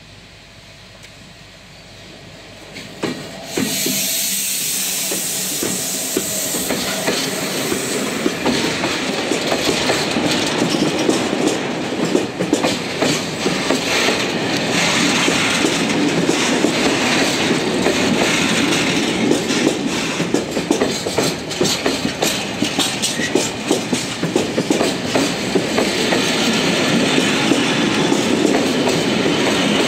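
Freight train hauled by an electric locomotive passing close by. The sound swells, then jumps sharply about three and a half seconds in as the locomotive goes past. After that a long line of wagons rolls by steadily with a dense run of wheel clicks over the rails.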